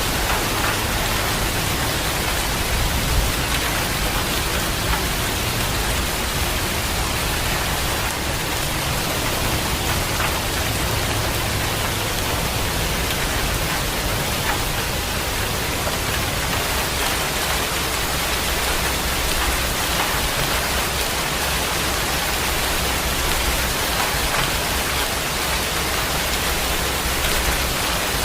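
Heavy rain falling steadily, with scattered individual drop hits and a low rumble underneath.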